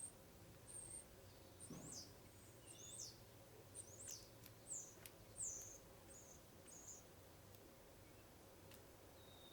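Faint high-pitched chirps from a small garden bird, a string of short calls about every half second that stops about seven seconds in.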